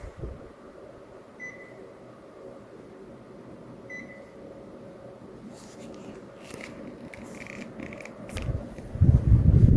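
Panasonic CS-YN12WKJ air conditioner's indoor unit giving two short high beeps about two and a half seconds apart, as when it answers the remote, over a faint steady hum. A few light clicks follow, and near the end a loud low rumble of wind on the microphone comes in.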